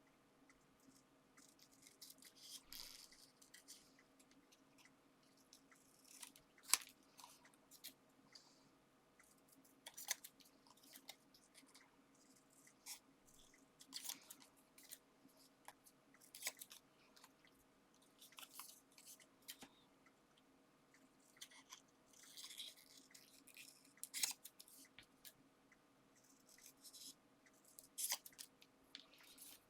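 Small scissors snipping paper in short, irregular runs of cuts, fussy-cutting around a printed flower. A faint steady hum lies underneath.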